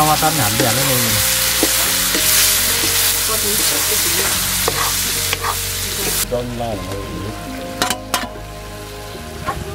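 Goat meat and intestine with greens sizzling loudly in a hot iron wok while being stirred with a metal spatula. About six seconds in the sizzle drops away sharply, and a couple of sharp knocks follow near the end.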